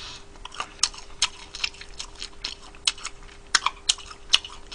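Close-up chewing of fried Korean native chicken: irregular mouth clicks and smacks, about two or three a second, as tough, chewy meat is worked over.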